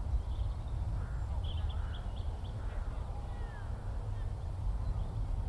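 Outdoor countryside ambience: a steady low rumble with several distant bird calls, a few short harsh calls and high chirps between about one and three seconds in, then a brief falling whistle.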